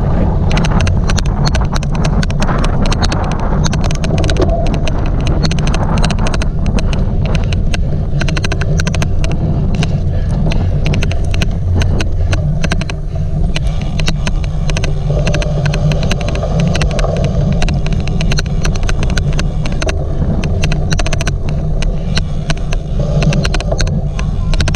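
Loud wind rumble on the microphone while a cyclocross bike is ridden at race pace. An odd, rapid, irregular clicking runs through it the whole time.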